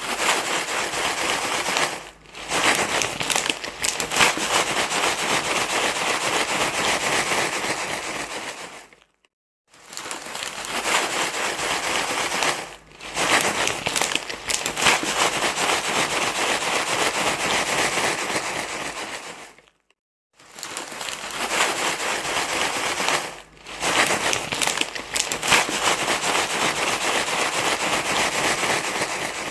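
Loud, dense rustling and crinkling noise, played as a baby-soothing sound. It runs in stretches of about nine seconds, breaking off for a moment about a third and two thirds of the way through, with a short dip partway into each stretch.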